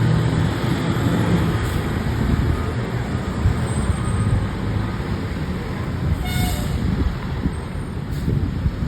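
Fire engine running with a steady low rumble amid road traffic, and one short horn toot about six seconds in.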